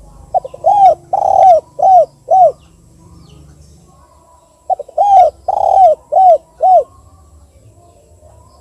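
Spotted dove (tekukur) cooing: two call phrases about four seconds apart, each a quick stutter of short notes followed by four rounded coos, the 'kuk 2' call type.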